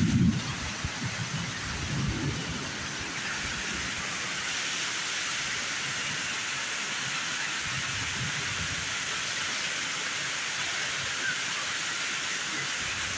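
Heavy thunderstorm rain pouring steadily in an even hiss. Low rumbles come at the start and again about two seconds in, then fade.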